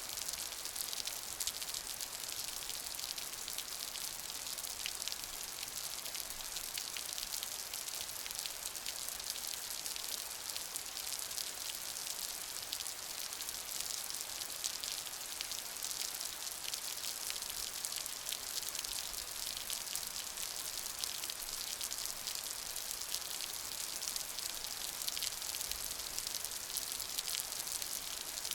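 Steady rain: an even hiss of many small drops striking a surface, with fine sharp drop clicks throughout and no change in intensity.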